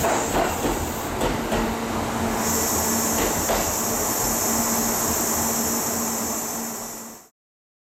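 Kintetsu 23000 series Ise-Shima Liner electric train pulling out, its wheels knocking over rail joints with a running rumble. About two and a half seconds in this gives way to a steady high hiss with a faint hum, which cuts off shortly before the end.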